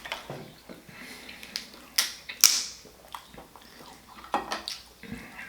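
Whole lobster shell being cracked and broken apart by hand: a run of sharp cracks and crunches, the loudest about two and a half seconds in.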